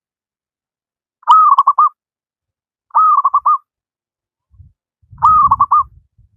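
Wild local zebra dove (perkutut) cooing: three phrases about a second and a half apart, each a drawn-out note followed by a quick run of short notes. A low rumble comes in under the third phrase.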